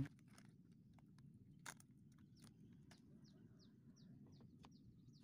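Near silence with a small bird chirping faintly: a run of short, quick falling notes, about three a second, starting about three seconds in. A few faint clicks come before and between them.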